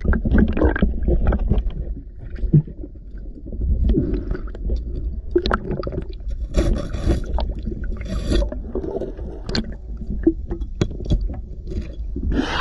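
Underwater sound of a scuba diver's breathing: a low bubbling rumble of exhaled bubbles with many sharp clicks and taps, and two hissing pulls on the regulator a little past halfway.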